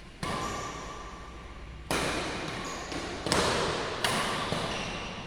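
Badminton rally: sharp racket strikes on the shuttlecock, about five hits one to two seconds apart, each echoing through a large hall.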